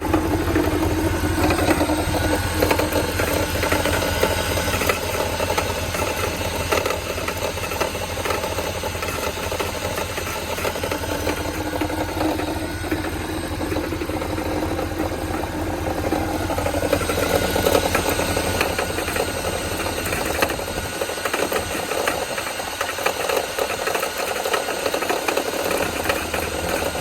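Mercedes-AMG M156 6.2-litre V8 in a CLS63 running with a rapid, rod-knock-like knocking. A replaced water pump has not cured it, and the owner now suspects the alternator. The deep low rumble thins out about 21 seconds in.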